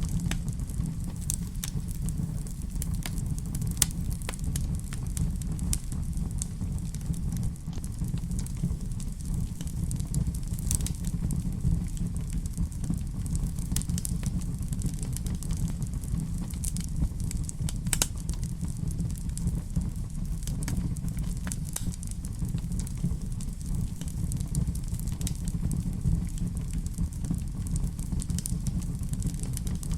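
Wood fire crackling in a fireplace: a steady low rumble of flames with sharp pops scattered irregularly throughout.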